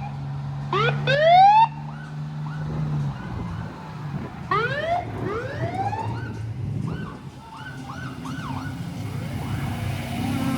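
Siren sounding short rising whoops: two quick whoops about a second in, two more around five seconds in, then fainter ones, over a steady low drone that stops about three seconds in.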